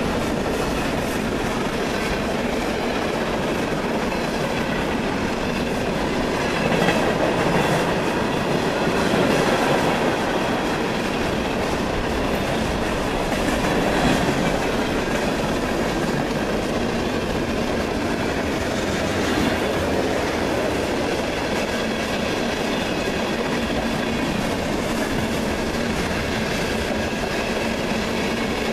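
Freight train cars rolling past close by: a steady rumble of steel wheels on rail with clickety-clack over the rail joints, swelling a few times in the first half.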